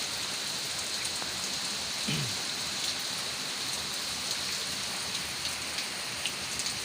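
Heavy rain pouring steadily onto the ground, a constant hiss. There is a brief falling tone about two seconds in.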